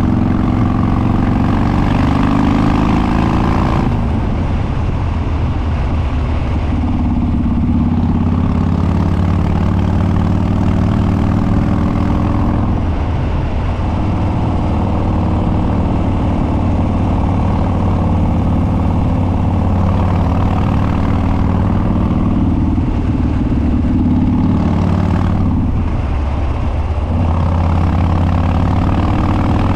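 Harley-Davidson Dyna Street Bob's Twin Cam V-twin running loud through unbaffled dual exhausts while riding. The engine note rises and falls with the throttle and breaks off briefly several times, at about 4, 13 and 26 seconds in.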